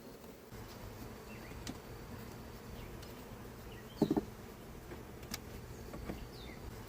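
Honeybees buzzing around an open hive as a steady low hum, with a short, louder buzz about four seconds in as a bee passes close, and a few faint clicks.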